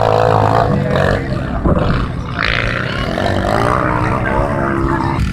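Motocross bike engines revving as the bikes race the track, their pitch rising and falling with the throttle.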